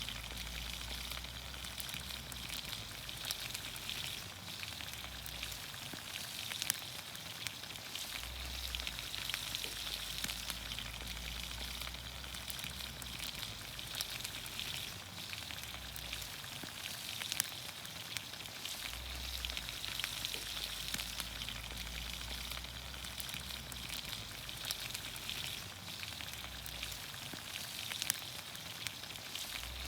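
Vegetables sizzling in olive oil over a campfire: a steady hiss with scattered small crackles and pops.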